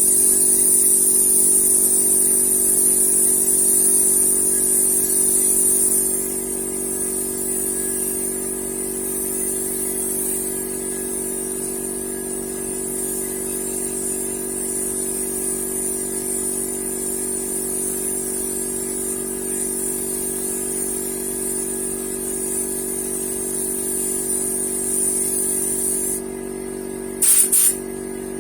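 Paint spray gun hissing as it sprays, over a steady motor hum; the spraying is louder for the first several seconds, stops about 26 seconds in, then comes back as one short burst near the end.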